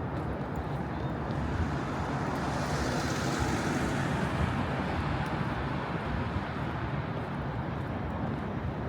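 Road traffic noise, with one vehicle passing: its tyre noise swells about three seconds in, then fades.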